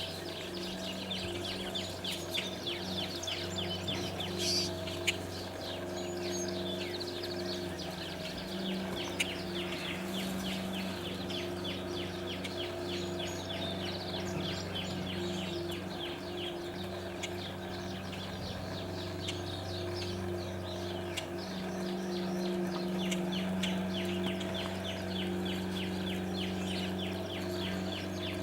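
Songbirds chirping in long runs of rapid, short repeated notes that pause around the middle and resume, over a steady low mechanical hum.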